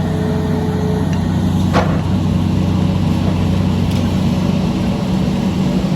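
Heavy engine running steadily at a constant low drone, with one short sharp knock about two seconds in.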